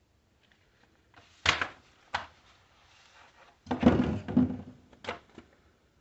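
Hard objects being handled: a sharp knock, another a moment later, then a short burst of clatter and one last knock, like parts being set down or fitted together.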